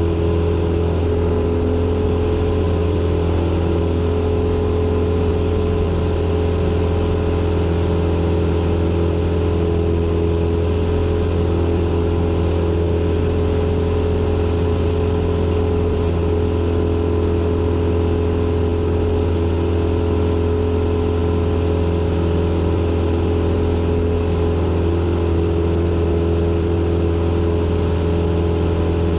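Cessna 172N's four-cylinder Lycoming piston engine and propeller running steadily, a constant low drone heard inside the cockpit.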